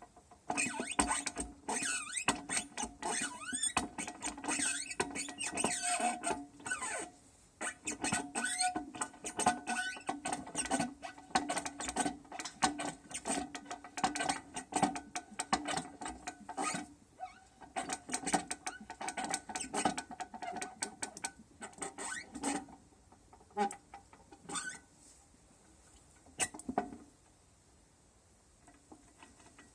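Engine mount bearing being worked in a press: a dense run of metallic squeaks, creaks and clicks that thins out to a few separate clicks and stops a few seconds before the end.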